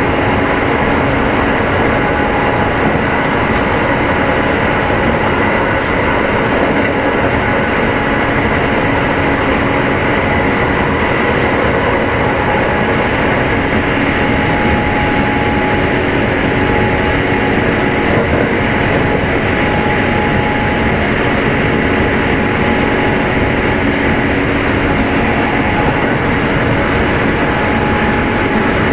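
Kintetsu 2610 series electric train heard from inside motor car Mo 2616 at a steady running speed. The traction motors and gears hum in a few constant tones over the rumble of the wheels on the rails, with no speeding up or slowing down.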